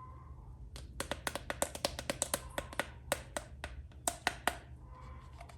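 Sharp clicks and taps of hard plastic toys or packaging being handled: an irregular run of a couple of dozen, starting about a second in and stopping near the end.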